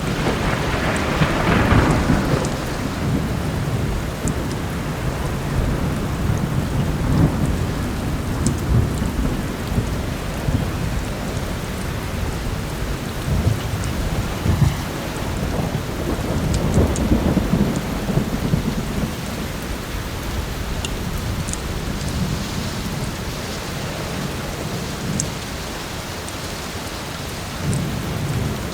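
Heavy rain with thunder rumbling low throughout, swelling most strongly about one to three seconds in, with a few faint sharp clicks scattered on top.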